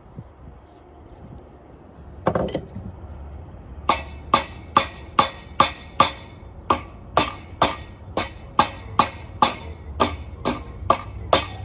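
A hammer striking metal, each blow ringing: one blow about two seconds in, then a steady run of blows, about two and a half a second, from about four seconds in. The hammering is on a broken connecting rod jammed in a Honda F22C engine block, trying to drive it out.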